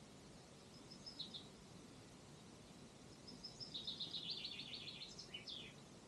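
A songbird sings: a short phrase about a second in, then a song of about ten quick repeated high notes ending in a falling flourish, over a faint steady background hiss.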